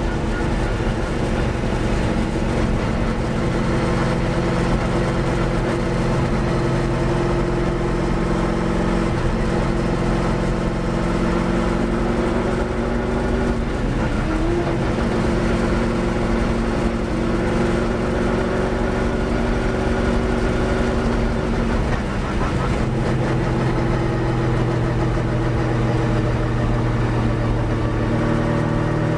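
Holden HQ Monaro V8 touring car engine running steadily under racing load, heard from inside the cabin. The engine note wavers slightly and dips briefly about three-quarters of the way through.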